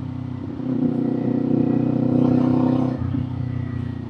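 Kawasaki Z400's 399 cc parallel-twin engine and exhaust running under way, the rider's motorcycle. It grows louder about a second in as the throttle opens, holds, then eases off near the three-second mark.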